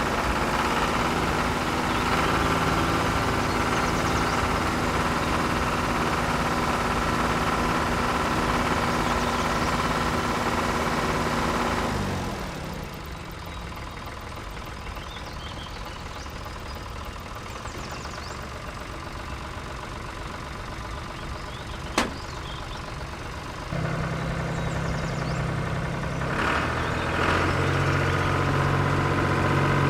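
Mini tractor's small engine idling steadily. About twelve seconds in it drops to a quieter hum, a single sharp click comes about ten seconds later, and the engine runs louder again from about twenty-four seconds.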